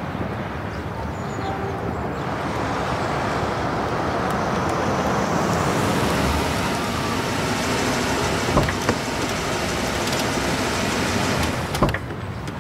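Steady road-vehicle noise, like a car running or passing traffic, growing louder about two seconds in, with a few short sharp knocks in the second half.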